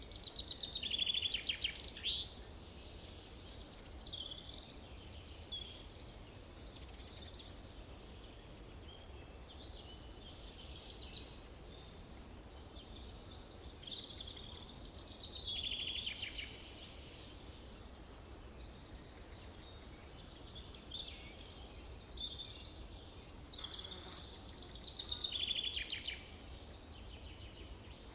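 Forest birdsong: several birds chirping and whistling, with one louder, rapid trilling song that comes three times, over a faint steady low rumble.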